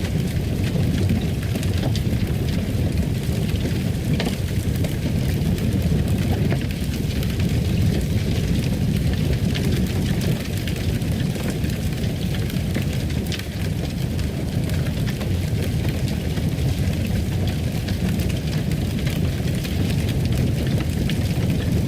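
Fire burning in a fireplace: a steady low rush with scattered sharp crackles.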